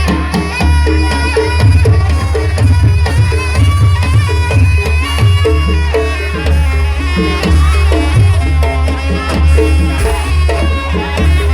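Loud live jaranan buto ensemble music: fast, busy hand-drum patterns with a continuous reedy melody line above and a heavy low pulse underneath.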